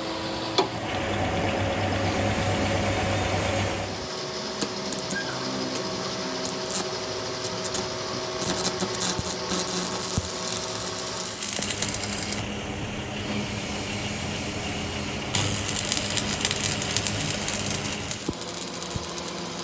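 Workshop machinery motor running steadily with a light rattle, in several sections that change abruptly, each with a different steady hum.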